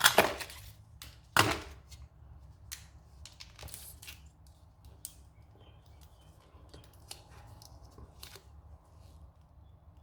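Handling of a tyre puncture repair kit's tools and packaging: two louder rustling knocks in the first second and a half, then scattered small clicks and rustles.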